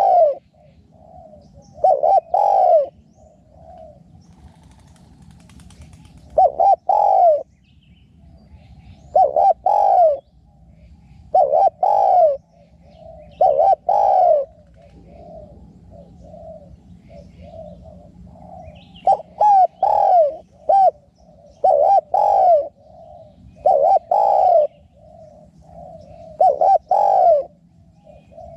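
Spotted doves cooing: loud, low coo phrases about every two to three seconds, with softer coos between them.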